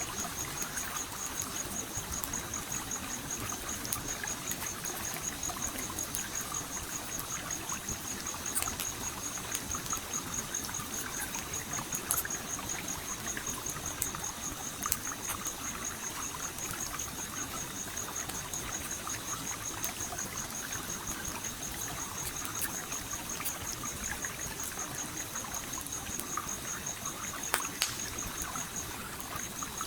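Stream flowing steadily, with occasional sharp pops and crackles from a campfire a few times. A steady high-pitched pulsing trill runs through it and breaks off briefly near the end.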